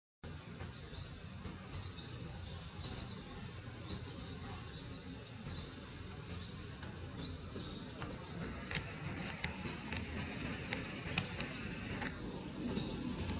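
Small birds chirping: short high chirps repeating about twice a second, over a steady low rumble of outdoor background noise, with a few sharp clicks in the second half.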